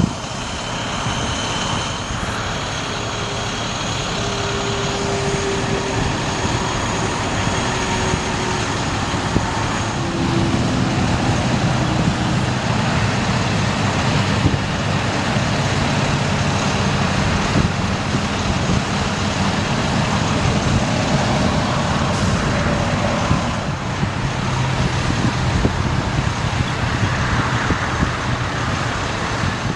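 Diesel engine of a 2005 International 4300 bucket truck running steadily. A few faint tones slide lower in pitch in the first ten seconds, and a low hum grows stronger about ten seconds in.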